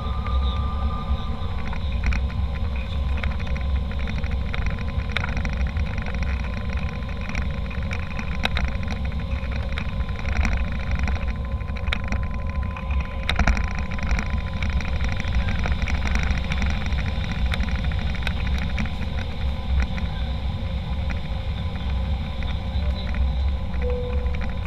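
Cabin noise inside an Embraer E190 jet airliner: a steady deep rumble of engines and airflow, with frequent small clicks and rattles from the cabin fittings.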